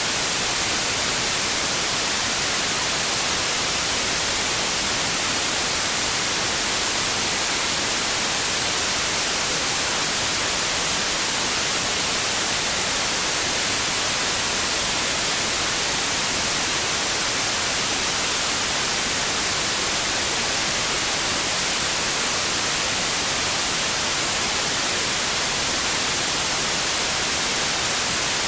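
Steady, unchanging white noise: an even hiss, strongest in the treble, with no breaks or other sounds.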